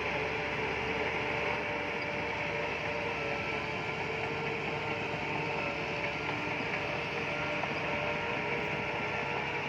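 Bulldozer running steadily: a constant heavy-machine din of diesel engine and track noise, with a few steady tones held throughout.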